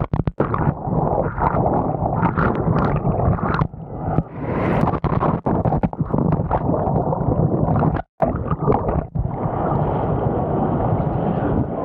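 Whitewater rapid churning around a raft as it capsizes, muffled and gurgling, with brief cut-outs. About nine seconds in the rush of water turns steadier and a little brighter.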